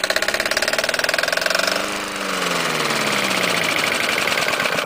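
Briggs & Stratton engine running with its magneto removed, firing without any ignition under compression, helped by a diesel fuel catalyst. It runs fast and rhythmic, its pitch falling away in the second half.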